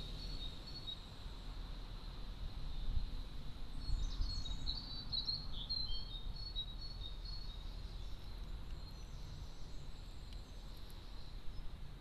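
Outdoor garden ambience with a steady low rumble. A few short high bird chirps come from small garden birds about four to six seconds in.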